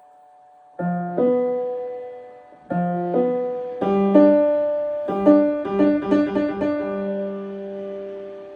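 Piano being played: a short phrase of struck notes and chords, a quicker run of notes in the middle, then a held chord that fades away.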